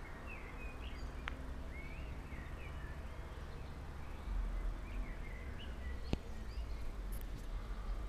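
Small birds chirping, short rising and falling calls scattered throughout, over a steady low rumble. Two sharp clicks cut through, the louder one about six seconds in.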